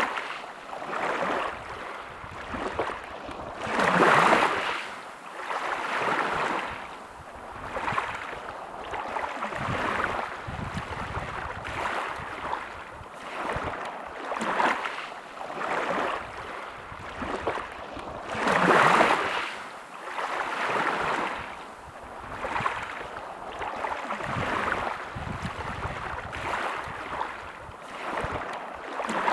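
Sea waves washing in, swelling and fading every second or two, with two louder breaking waves about 4 and 19 seconds in.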